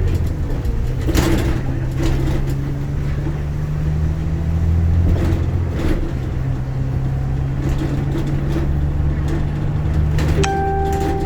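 Inside a moving bus: the engine drones steadily under scattered rattles and clicks from the cabin. A short steady electronic beep sounds near the end.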